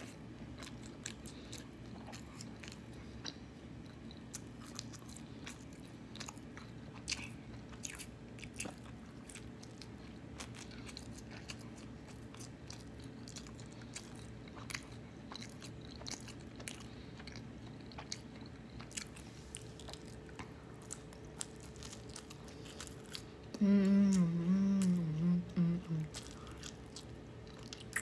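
Close-up mouth sounds of a person eating a slice of cheese pizza: biting and chewing with many small wet clicks. About three-quarters through, a loud hummed voice with a wobbling pitch lasts a couple of seconds.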